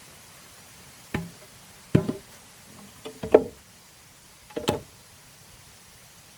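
A series of sharp knocks, about five or six hard strikes at uneven intervals of roughly a second, each with a short ring.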